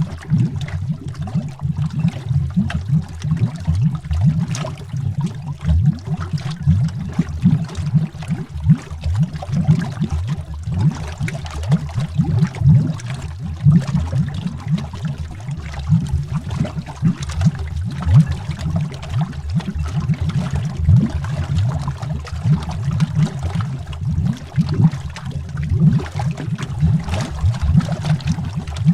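Continuous underwater bubbling, with a deep, low gurgle of many small bubbles and frequent brief pops throughout.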